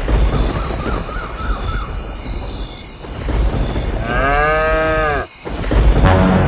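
A cow mooing once, a single drawn-out call about four seconds in, over a steady noisy background with a constant high whine. Near the end this gives way to music.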